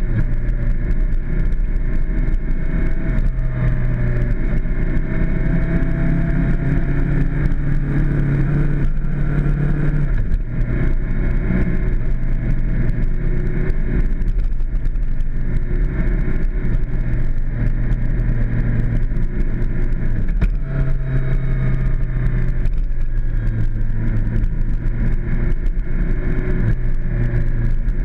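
Suzuki GSXR600's inline-four engine running while the bike is under way, with rushing noise over it. The engine note eases off about ten seconds in and picks back up around twenty seconds in.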